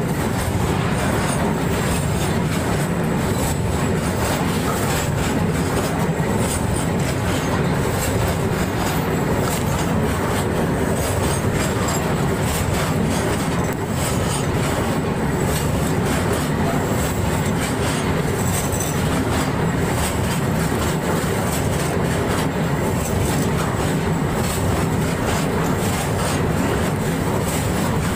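A train passing at close range: a steady, loud rumble and clatter of its wheels on the rails that keeps on without a break.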